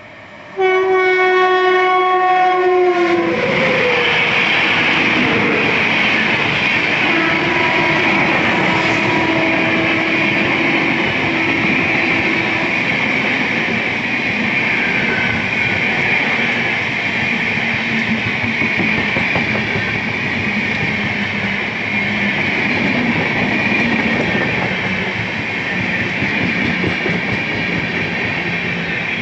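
Indian express train's electric locomotive sounding one long horn blast of about two and a half seconds as it approaches. Then comes the loud, steady rush and rattle of the train's coaches passing close by at speed.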